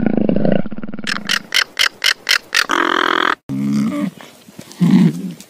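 Animal calls in two edited clips. First, over the cheetah, comes a run of about six short sharp calls and then a held call. After a sudden cut comes low, throaty grunting matched to a griffon vulture.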